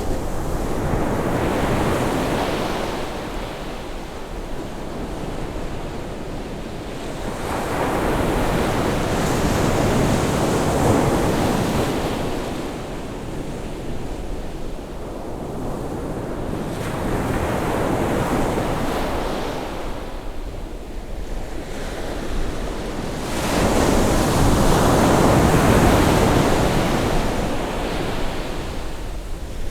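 Ocean waves breaking and washing up the shore on a rising tide, swelling and fading in surges about every eight seconds, with some wind on the microphone.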